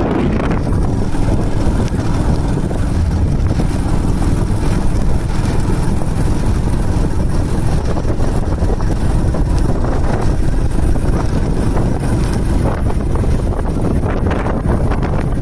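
Wind buffeting the microphone outdoors: a loud, steady, rumbling noise with no pitched tone in it.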